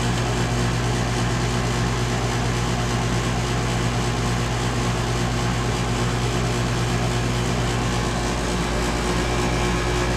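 2012 Bryant Legacy Line 2.5-ton central air conditioner outdoor unit running, its scroll compressor and condenser fan giving a steady hum and buzz over the rush of the fan's air. The buzzing is one the owner says has got worse over the cooling season, for a reason he doesn't know.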